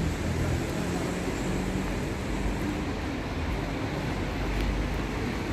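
Steady street traffic noise with the low hum of a vehicle engine.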